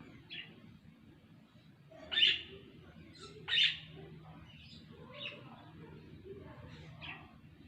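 Pet budgerigars chirping in short, sharp calls: two loud chirps about two and three and a half seconds in, with softer ones scattered between.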